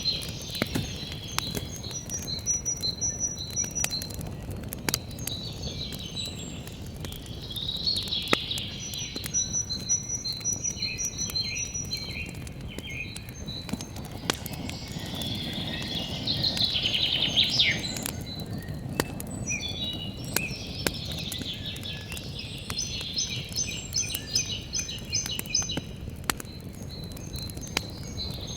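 Wood campfire crackling and popping with many sharp irregular cracks. Small birds sing repeated high chirping phrases over it, with a brief rising whistle about two-thirds of the way through.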